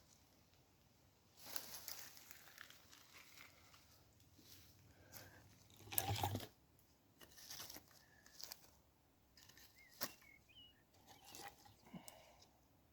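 Dry tinder and kindling being handled: irregular crinkling and tearing, with one louder crunch about halfway through.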